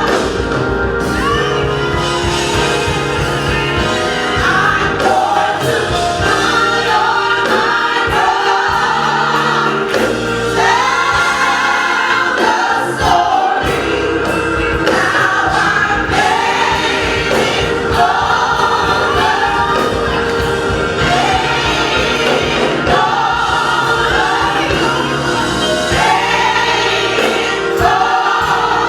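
A gospel choir singing with instrumental backing and a steady beat.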